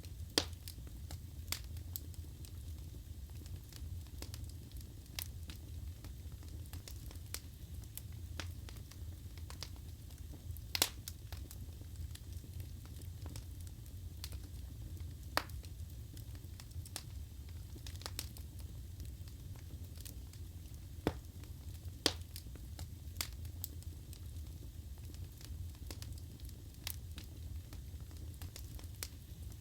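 Wood fire burning in a fireplace: a steady low rumble of flames with scattered sharp crackles and pops from the burning logs, a few of them louder.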